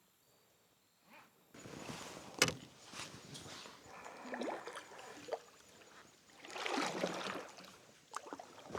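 Water sloshing, trickling and splashing around a kayak, with hull or gear knocks; one sharp knock comes about two and a half seconds in. It is faint for the first second and a half.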